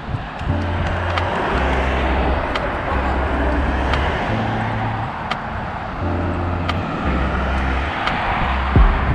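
Steady traffic rush, with background music playing a slow bass line of notes held about a second each.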